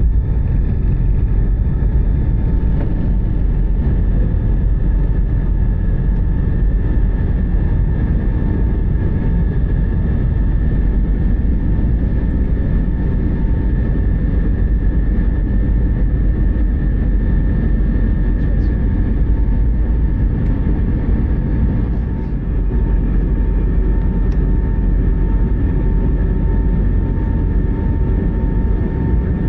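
Steady rumble of an Airbus A320-family jet airliner heard from inside the cabin: engine and airflow noise with a constant whine from the engines.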